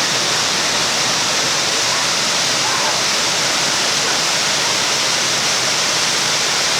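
Loud, steady rush of falling water from a mountain waterfall, with no breaks or changes.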